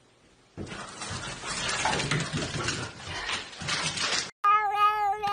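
A rough hissing noise for about four seconds, then after a sudden cut a cat starts a long, loud meow near the end.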